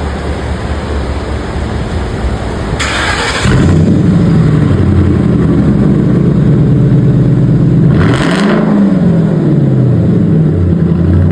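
Ford Crown Victoria's 4.6-litre V8 on a muffler-delete exhaust with its two catalytic converters kept, catching and starting about three seconds in, then running at a loud idle, with one quick rev that rises and falls near the end.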